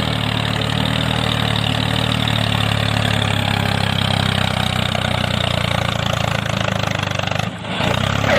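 Engine idling steadily with a fast, even beat, breaking off briefly about seven and a half seconds in.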